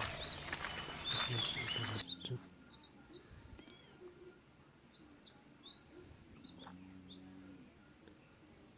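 Oriental magpie-robin (kacer) chirping: scattered short, arching whistled notes. A louder rushing noise runs under it and stops about two seconds in.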